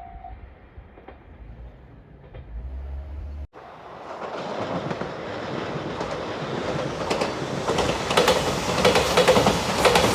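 An electric train approaching, its running noise growing steadily louder with sharp clicks from the wheels over the rail joints. Before it there is a low rumble that breaks off suddenly about three and a half seconds in.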